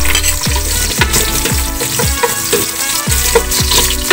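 Minced garlic and sliced onion sizzling in hot oil in an aluminium pot, stirred with a spoon, over background music with a steady beat.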